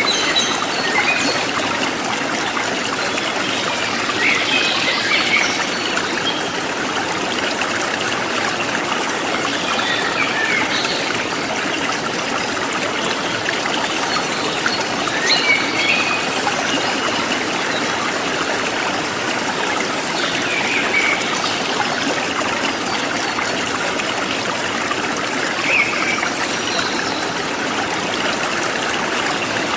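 A forest stream flowing and trickling steadily, with short bird chirps every few seconds.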